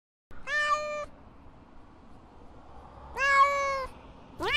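Domestic cat meowing: two short meows about two and a half seconds apart, and a third starting near the end.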